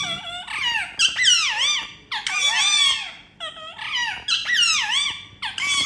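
Indian ringneck parrots calling: a rapid series of about seven or eight shrill squawks, each swooping down and back up in pitch, with short gaps between them.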